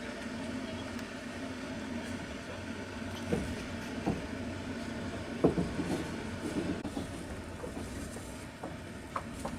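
Passenger train carriage running steadily along the rails, a continuous rumble with a low hum. A few sharp clacks and knocks from the wheels and carriage come about midway.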